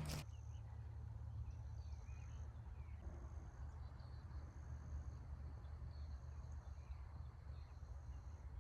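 Faint insects trilling outdoors, a high thin tone that starts and stops in stretches of about a second, over a steady low rumble.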